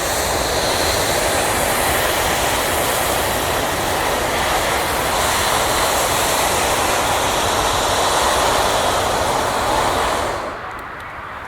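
Hot-air balloon propane burner firing: a loud, steady roar that cuts off near the end, leaving a quieter rush.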